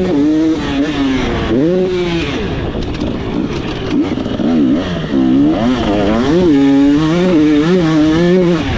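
KTM 300SX single-cylinder two-stroke engine, ridden wide open: its pitch climbs and drops again and again as the throttle is opened and chopped, with several quick rises and falls in the second half.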